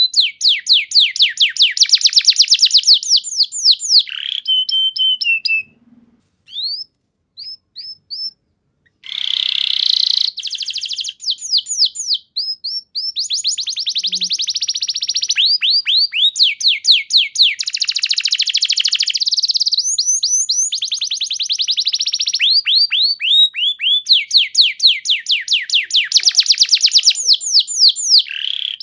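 Domestic canary singing in long, fast trills of rapidly repeated sweeping notes. The song breaks off about six seconds in, leaving only a few scattered notes, then starts again about nine seconds in and runs on.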